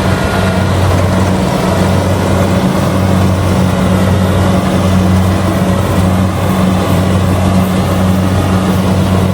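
Kubota DC-70G rice combine harvester's diesel engine running steadily under harvesting load, a constant low drone with a dense mechanical rush above it.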